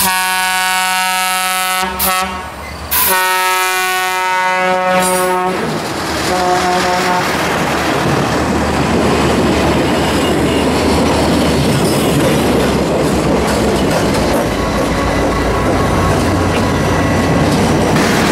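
Multi-chime train horn sounding two long blasts and a short one, then the work train rolling past close by: steel wheels rumbling and clacking over the rail joints as the cars and locomotives go by.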